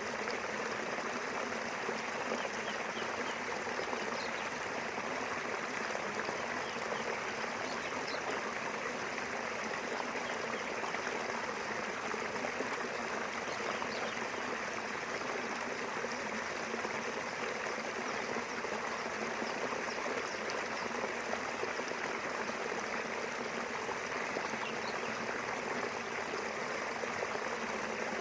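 Small river flowing steadily, a continuous rush of running water, with a few faint bird chirps.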